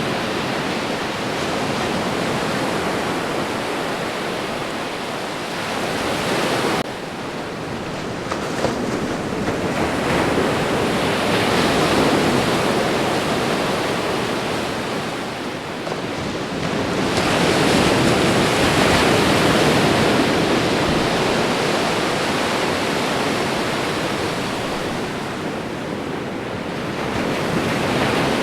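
Ocean surf: waves breaking and washing in a continuous rush that swells and eases every several seconds, with a sudden change in the sound about seven seconds in where the recording is spliced.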